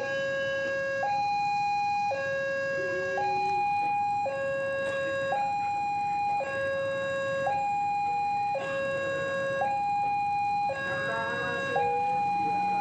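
Railway level-crossing warning alarm sounding its two-tone electronic signal, a higher and a lower tone alternating about once a second, which warns that a train is approaching.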